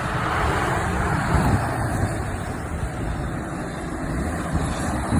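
Fire engine on the move: steady engine and road rumble with wind buffeting the microphone.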